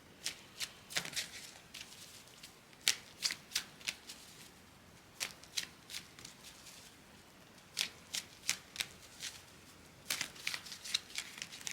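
Deck of tarot cards being shuffled by hand, in about five short bursts of quick card snaps with pauses between.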